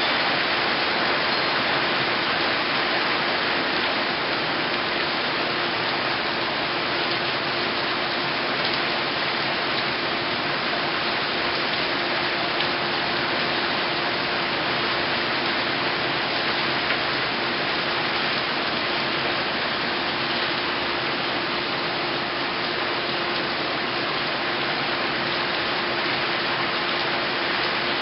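Heavy rain pouring steadily from a tropical storm downpour, with a faint steady hum underneath.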